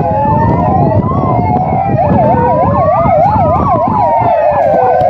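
Several fire engine sirens sounding at once: slow rising and falling wails overlap, and a fast yelp of about three sweeps a second joins in about two seconds in.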